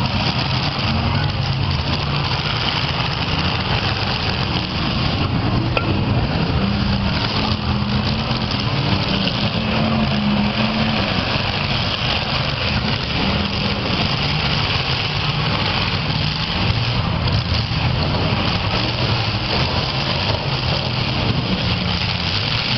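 Several demolition derby cars' engines running and revving together in a steady, dense din, their pitches rising and falling as the cars drive and ram each other.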